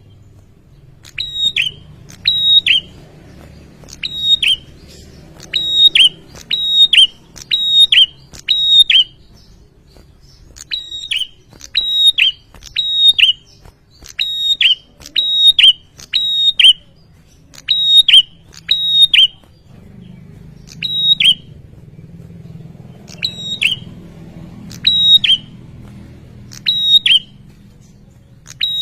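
Male prinia (prenjak) calling insistently: loud, sharp, short chirps repeated in quick runs of two to four, with brief pauses between the runs.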